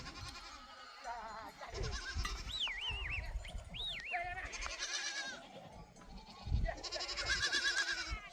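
Goats bleating repeatedly, several wavering calls one after another.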